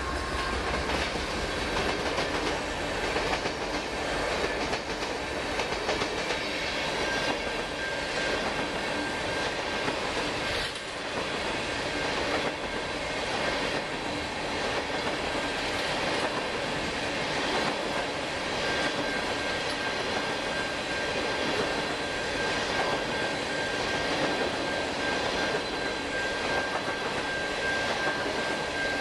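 Freight train of loaded tank cars rolling steadily past, wheels clattering over the rail joints. A thin, steady wheel squeal comes in about seven seconds in and returns for the last third.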